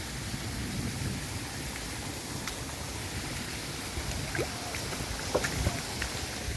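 Rainwater flowing steadily in a rushing stream, with a few faint short chirps over it.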